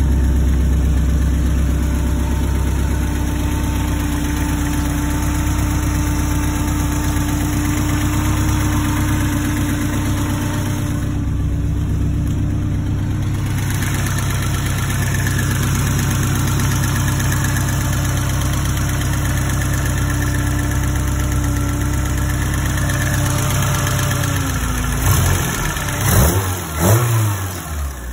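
BMW E30's M10 inline-four engine, fed by a single Weber carburettor, idling steadily. Near the end it is revved in about three quick throttle blips.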